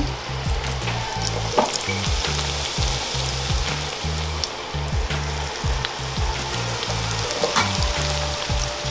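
Breadfruit slices deep-frying in hot oil in a cast-iron pot, a steady dense sizzle and crackle. The low notes of background music run underneath.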